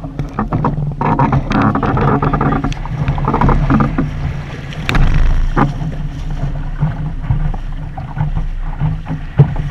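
Steady rumble and rushing of wind and water on a Sunfish sailboat under way, heard through a GoPro housing, with scattered knocks.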